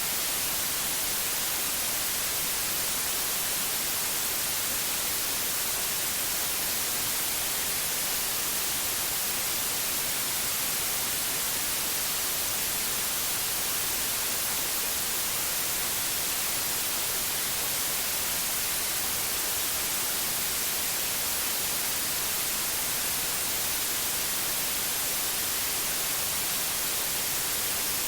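Steady, unchanging white noise, a hiss strongest in the high end, with no other sounds.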